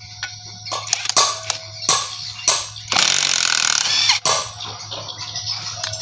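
Tools clinking and knocking on the metal parts of an old Yamaha 100 motorcycle engine being dismantled: a run of sharp metallic knocks with brief ringing, and a rasping stretch about three seconds in.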